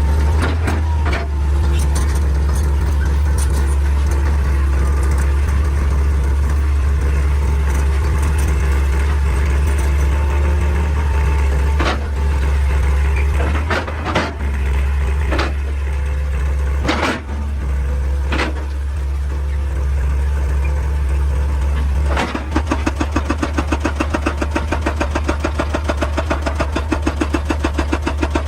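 Excavator diesel engine running steadily under load, with several sharp knocks of rock or steel about halfway through. A fast, even hammering sets in about two-thirds of the way in.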